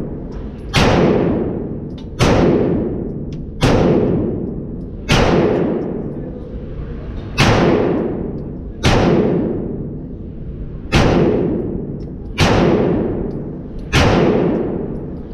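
Nine 9mm pistol shots from a Glock 19 Gen 4 in a CAA Micro Conversion Kit, fired one at a time about every one and a half to two seconds, each shot ringing out in a long reverberant tail in an indoor range.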